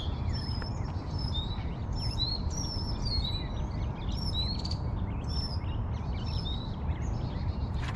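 Birds chirping and singing: short high chirps and little gliding whistles, several a second from more than one bird, over a steady low background rumble.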